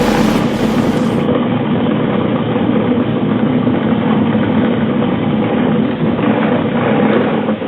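Motor of a salvaged washing machine, used as a pottery wheel drive, running steadily with a continuous hum.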